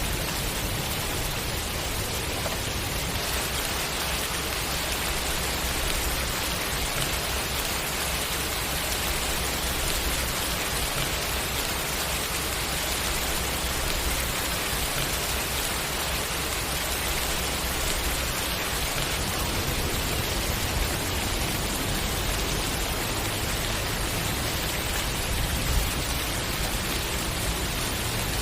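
Steady, even rain falling onto a surface, a dense hiss of drops with a low rumble underneath, and a single slightly louder patter about 26 seconds in.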